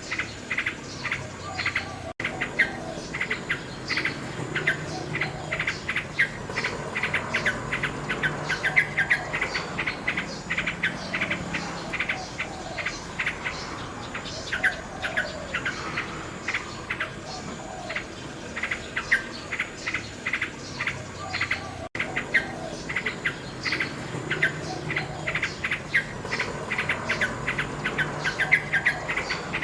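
Nightingale singing rapid, varied phrases of repeated notes and trills over a background of chirping insects. The sound cuts out for an instant twice.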